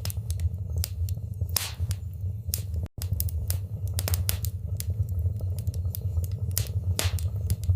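Wood fire in a fireplace crackling, with irregular sharp pops and snaps over a low steady rumble of the flames. The sound cuts out for a split second about three seconds in.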